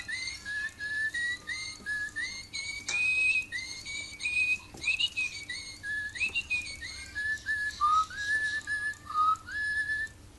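Little Live Pets Tweet Talking Bird toy singing its chirping birdsong: a quick run of short whistled notes that slide up and down in pitch, several dipping lower near the end.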